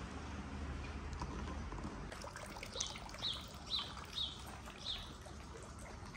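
A small bird calls five times in a row, short high notes sliding downward, about two a second. Under it runs a steady trickle of running water.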